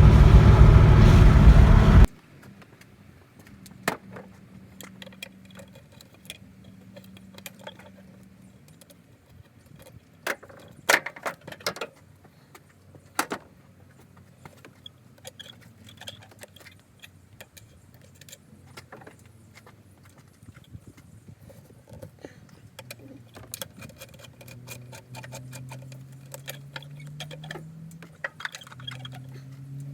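Mustang GT's 4.6-litre V8 running loudly, cutting off abruptly about two seconds in. After that come scattered light metallic clicks, clinks and jingling, with a faint low engine tone rising in pitch near the end.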